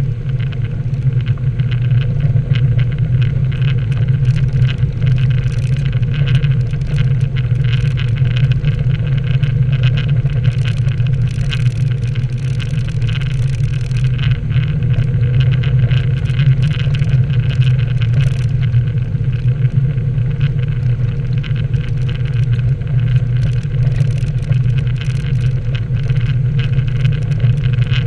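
Nissan 240SX (S13) engine running at a steady, unchanging pitch.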